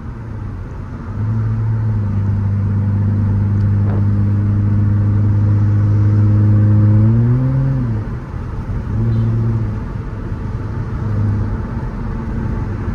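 Straight-piped Nissan Altima exhaust droning as the car accelerates. The engine note climbs slowly, swells briefly about eight seconds in, then drops off, and comes back in shorter bursts of throttle after that.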